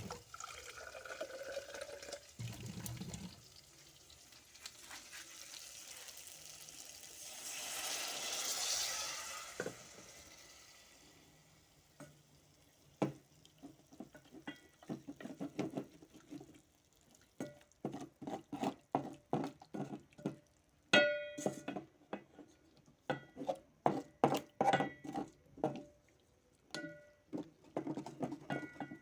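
Water poured into a pot of frying pork: the sizzle swells into a loud hiss that peaks and fades within a few seconds. After that, a metal spoon repeatedly clinks and scrapes against the pot as the stew is stirred.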